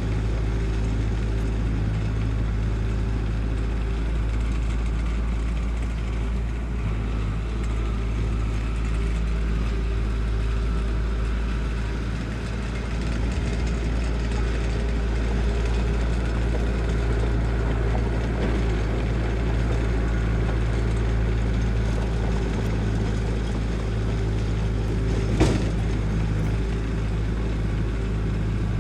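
Diesel engine of heavy construction machinery running steadily at constant speed, with one sharp knock near the end.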